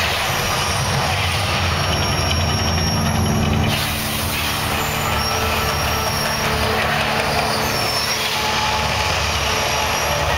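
Mirage volcano show in full eruption: a loud, steady low rumble with a hissing roar over it, which eases slightly about four seconds in.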